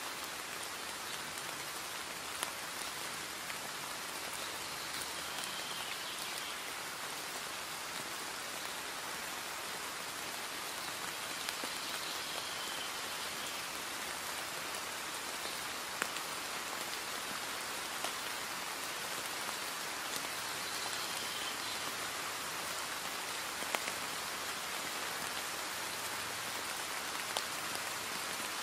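Heavy rain falling steadily, an even hiss with a few louder drop ticks here and there.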